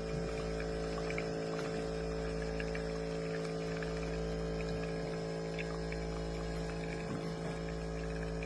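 Compact 20-bar espresso machine's pump running with a steady hum.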